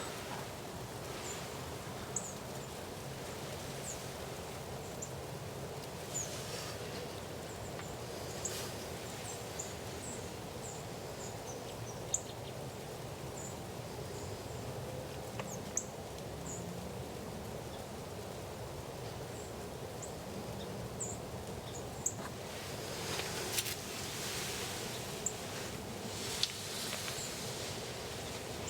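Snowy woodland ambience: a steady noise bed with scattered short, high chirps of small birds, and a few seconds of rustling near the end.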